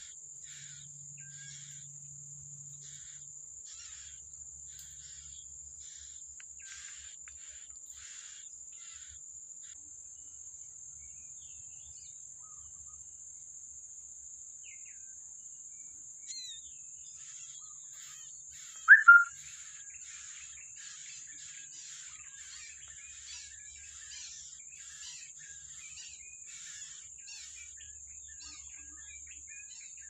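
Small birds chirping: short high chirps repeated about two or three times a second, stopping for several seconds midway and then starting again, with one much louder brief call about two-thirds through. A steady high-pitched drone runs underneath.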